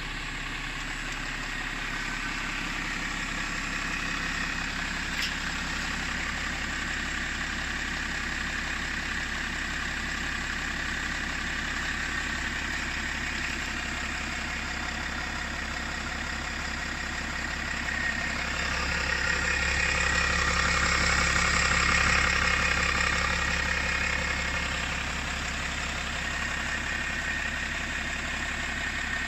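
BMW 525d's M57N2 three-litre straight-six common-rail diesel idling, with a rough idle that the owner questions as normal or not. Steady throughout, growing louder for several seconds about two-thirds of the way in before settling back.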